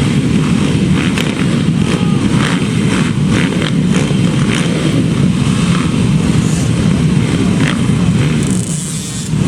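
Motocross dirt bikes running, heard under a loud, steady low rumble that dips briefly near the end.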